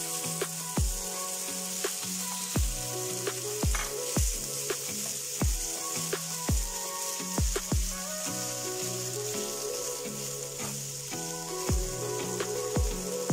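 Sliced sausage and ham frying in hot chorizo fat in a skillet, sizzling steadily while a plastic slotted spatula stirs them around. Background music with a steady beat plays over it.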